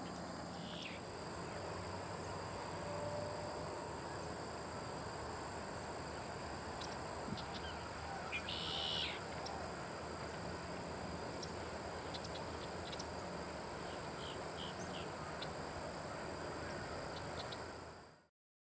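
Outdoor marsh ambience: a steady hiss with two thin, steady high tones, scattered faint bird chirps, and one louder harsh bird call about nine seconds in. The sound cuts out just before the end.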